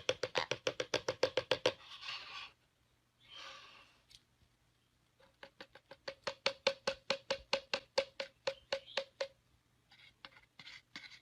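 Quick runs of sharp knocks or taps, about six a second, with a short hissy rustle between the runs.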